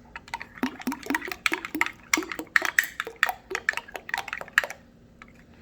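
A spoon clinking and scraping quickly against the sides of a small bowl while stirring a thick sauce, about five strokes a second, stopping near the end.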